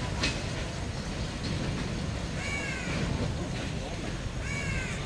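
Covered freight wagons rolling slowly past, their wheels rumbling steadily on the rails with a single clank near the start. A crow caws twice over it, about two and a half and four and a half seconds in.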